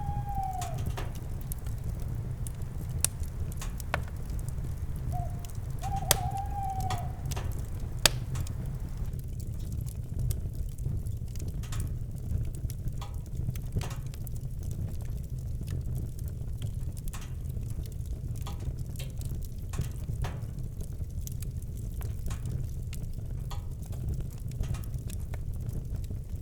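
Campfire crackling, with frequent sharp pops over a steady low rumble; a few pops stand out louder. An owl hoots at the start and again about six seconds in, the second hoot led by a short note.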